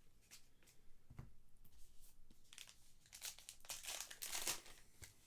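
Soft crinkling and tearing of baseball card pack wrappers as packs are opened and the cards handled, in short irregular rustles that are busiest past the middle.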